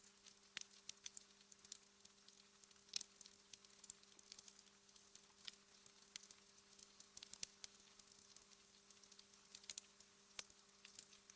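Fireplace fire crackling softly: faint, irregular pops and snaps, the sharpest about three seconds in, over a faint steady low hum.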